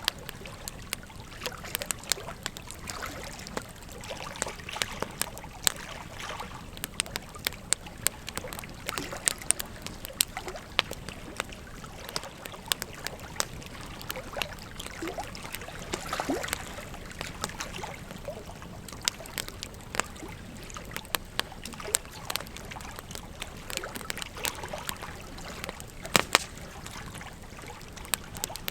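Wood fire crackling, with frequent sharp pops and snaps, over the steady rush of flowing river water.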